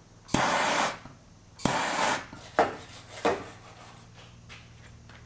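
Two short scrubbing strokes of a stiff brush on the heated sheet-metal panel, each about half a second, followed by two sharp taps.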